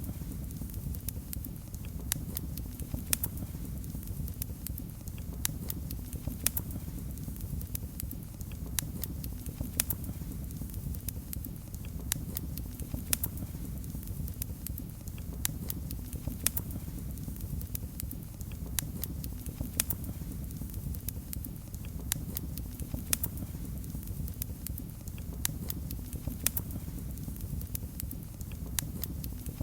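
Fireplace fire crackling, with frequent sharp, irregular pops and snaps over a steady low rumble of the flames.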